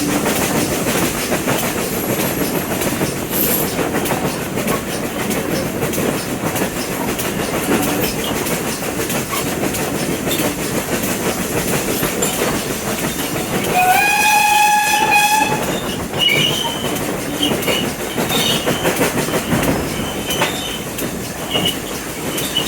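Heritage train running along the track, a steady rolling rumble with rail clatter. About fourteen seconds in, the train sounds one steady-pitched warning blast lasting about two seconds.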